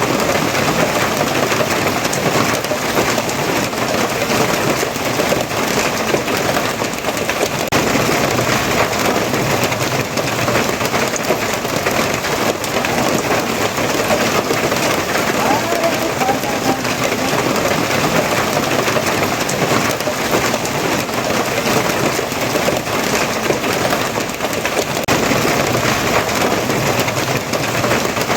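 Steady heavy rain falling on surfaces, a dense, even hiss that holds at the same level throughout.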